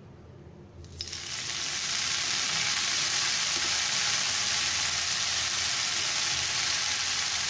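Fresh coriander leaves sizzling as they drop into hot mustard oil in a pan. The sizzle starts suddenly about a second in and holds steady.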